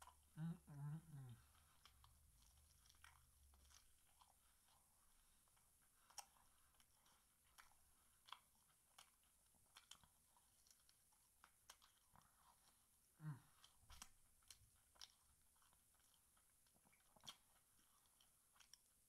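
Faint chewing and biting on a fried chicken leg: scattered small crunches of crispy breading and wet mouth clicks. A brief low vocal sound from the eater comes right at the start, and another about 13 seconds in.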